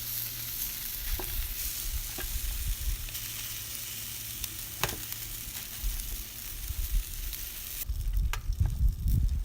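Chicken drumsticks sizzling on a very hot charcoal grill, with a few sharp clicks. The sizzle cuts off suddenly about eight seconds in, giving way to low rumbling.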